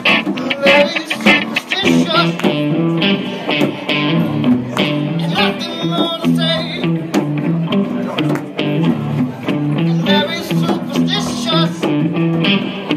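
Live band music led by strummed guitar, with a stepping low line of notes under it.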